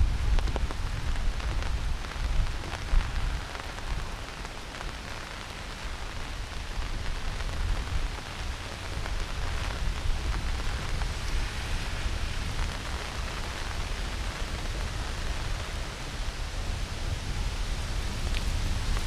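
Heavy rain falling steadily on forest foliage and the ground, an even patter and hiss. A deeper low rumble sits under it in the first few seconds, then eases off.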